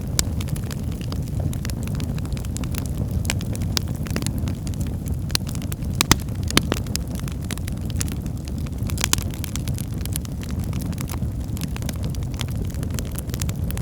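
Wood fire burning in a fireplace: a steady low rumble of flames with frequent irregular crackles and pops from the burning firewood, two of them louder a little past halfway.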